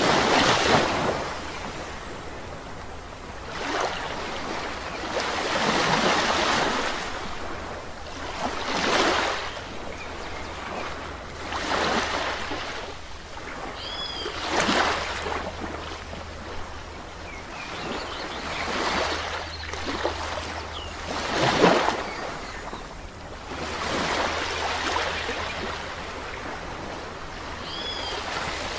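Sea waves breaking and washing up a beach, swelling and falling every two to three seconds. A brief bird chirp sounds twice, about halfway through and near the end.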